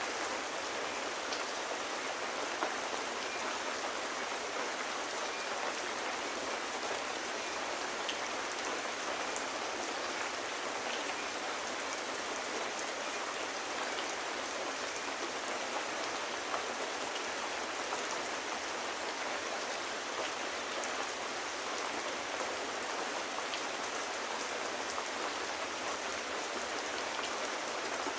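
Steady rain hissing on surfaces, with a few faint scattered drop ticks.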